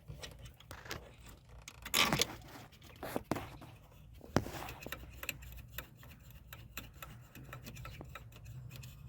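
Hand-handling of a throttle position sensor and accelerator pedal assembly: scattered small clicks and scrapes of plastic and metal, with a louder scrape about two seconds in and a few sharper clicks after it, over a low steady hum.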